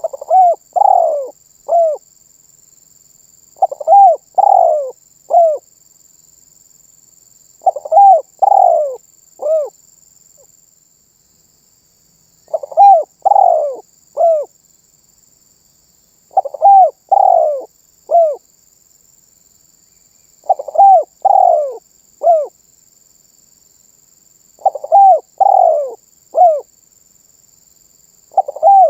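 Spotted dove (tekukur) calling, repeating its cooing phrase about every four seconds: a short lead-in note, two longer coos and a short final coo each time.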